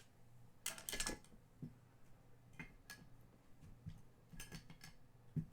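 Trading cards being handled, with scattered faint clicks and taps as the stiff chrome cards slide and flick against each other, a few together about a second in and more between three and five seconds.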